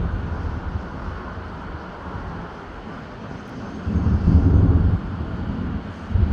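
Distant aerial fireworks booming, heard as low rolling rumbles: a loud one about four seconds in that lasts about a second, and another starting near the end, over a steady background noise.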